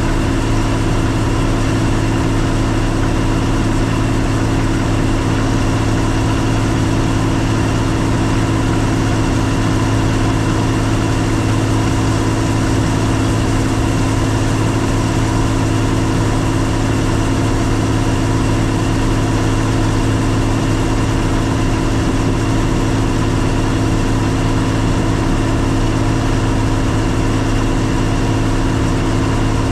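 Combine harvester's engine running at a steady speed: a constant drone with a few held tones and no change in pitch or level.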